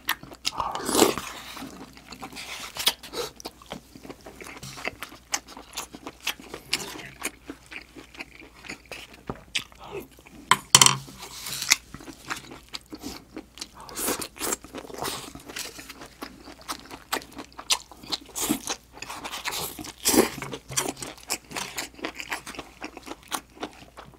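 Close-up chewing and crunching of a mouthful of stir-fried octopus and vegetable side dishes: wet mouth smacks and crunches come irregularly and densely, with a few louder ones along the way.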